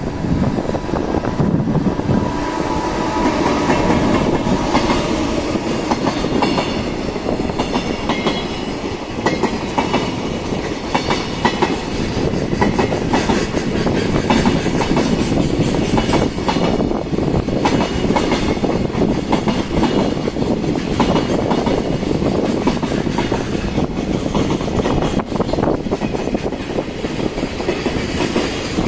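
Freight train hauled by an EF210 electric locomotive passing through at speed: a loud, continuous rumble with the rhythmic clickety-clack of the wagons' wheels over the rail joints.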